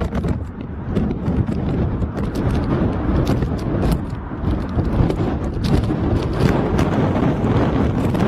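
Storm wind buffeting the microphone: a steady low rumble with rapid crackling pops throughout.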